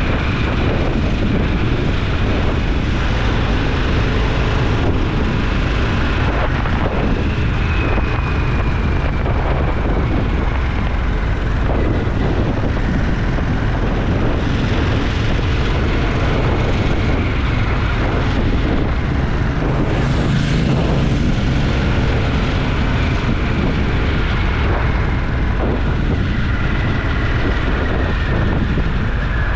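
Motorcycle engine running steadily at cruising speed, a deep continuous rumble mixed with wind rushing over the microphone. A brief swell in the noise comes about two-thirds of the way through.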